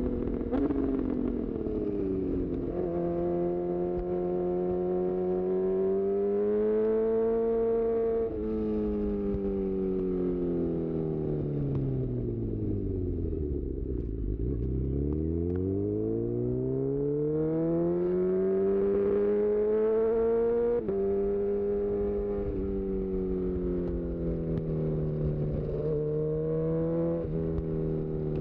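A 2018 Honda CB1000R's inline-four engine, breathing through a full-system Black Widow exhaust, working through the gears under the rider. Its pitch climbs with acceleration and drops sharply at quickshifted upshifts, about three seconds in and again about two-thirds of the way through. In between, the revs slide down to near idle about halfway, then rise again.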